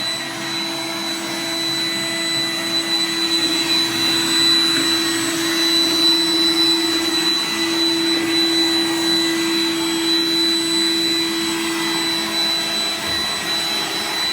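iRobot Roomba robot vacuum running, a steady whirring motor noise with a constant hum and a thin high whine over it. A couple of faint ticks come through about midway.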